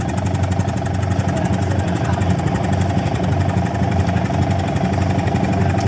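Boat engine running steadily with a rapid, even firing beat.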